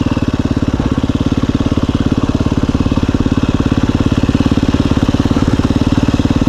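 KTM 350 EXC-F's single-cylinder four-stroke engine running steadily, with an even, rapid beat and no revving.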